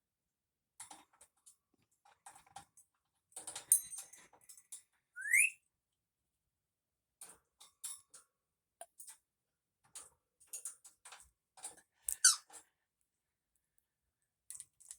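Pet bird making squeaks, short chirps and clicks, with a rising whistle about five seconds in and a falling whistle about twelve seconds in.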